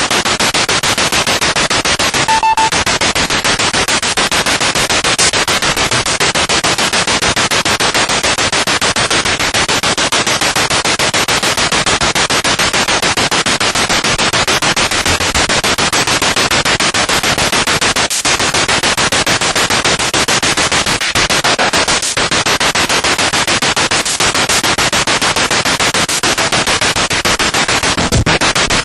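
Spirit box radio sweeping through stations: loud, steady static hiss chopped into rapid, even pulses, with a brief tone fragment about two and a half seconds in.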